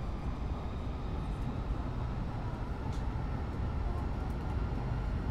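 N700S Shinkansen train running, its steady low rumble heard inside the passenger cabin, with a faint tick about three seconds in.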